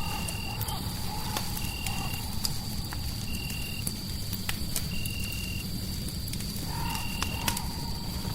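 A mixed spooky ambience bed: fireplace crackling in scattered sharp pops over a steady low rumble of noise. A short high chirp repeats about every second and a half over a thin steady high tone, and a wavering call like a frog or creature sounds at the start and again near the end.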